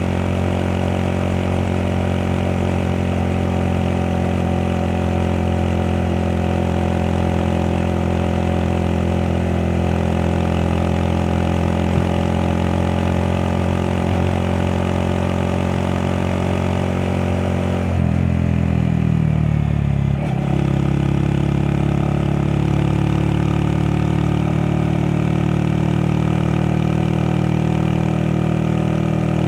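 Honda Monkey 125's small single-cylinder four-stroke engine running steadily under way. About eighteen seconds in the engine note drops, then settles and holds steady again.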